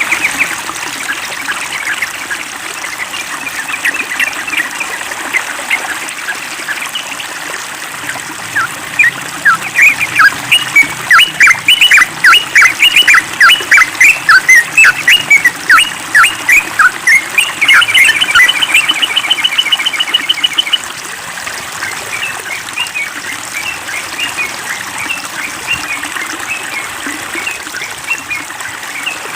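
Birds chirping over a steady sound of trickling water. There is a run of loud, sharp calls, about two a second, from about nine to seventeen seconds in, then a fast, even trill for about three seconds.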